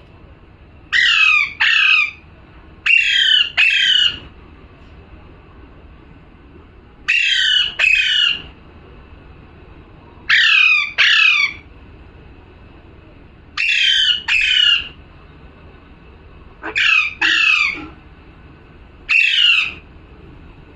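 Pet parrot squawking: harsh calls, mostly in pairs, repeated every two to three seconds, each call falling in pitch.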